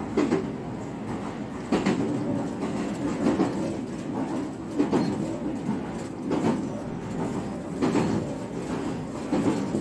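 JR West 125 series electric railcar running on jointed track, heard from inside: a steady rumble with clickety-clack rail-joint knocks about every second and a half, often as a quick pair.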